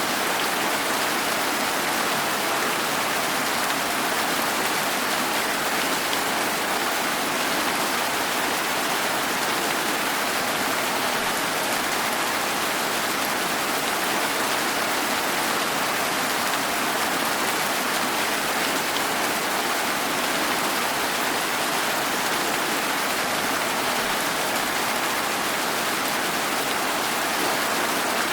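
Steady rain falling, an even hiss of drops on surfaces with no single drip or gust standing out.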